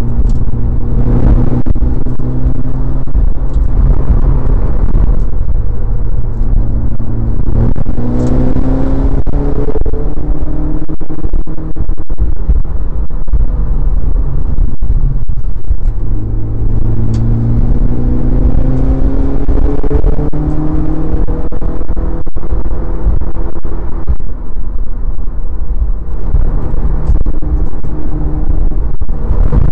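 Modified Mitsubishi Lancer Evolution IX MR's turbocharged 2.0-litre four-cylinder heard loud from inside the cabin, lapping a track at speed. The engine note twice climbs through the revs under acceleration, about a quarter of the way in and again past the middle, and runs steadier in between.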